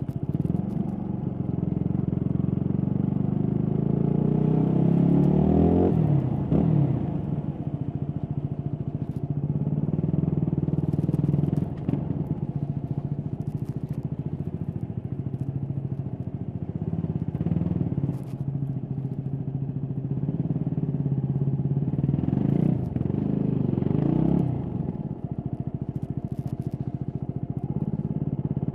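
Stock Yamaha WR250X's 250cc single-cylinder four-stroke engine while riding: the revs climb for the first several seconds and fall away sharply about six seconds in, run fairly steady, then climb and fall again a little past three-quarters of the way through. Occasional light clicks and rubbing from the microphone touching things.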